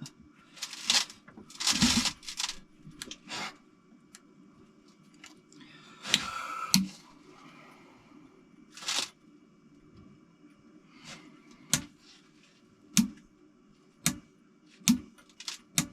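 Workshop handling noises as an engine and hand tools are shifted: scattered knocks and scrapes, then a run of sharp metallic clicks about a second apart near the end.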